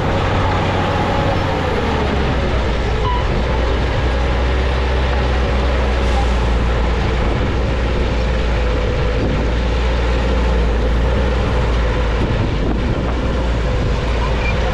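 Bulldozer's diesel engine running steadily under load: a heavy, low drone with a whine that drops in pitch briefly about two seconds in.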